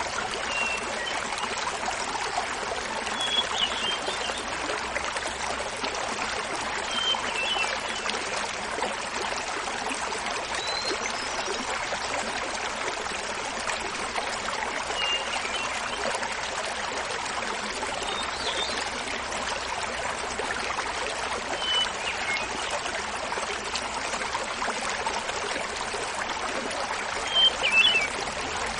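Small mountain waterfall splashing steadily, with a hermit thrush singing short phrases over it every three to four seconds, the last near the end the loudest.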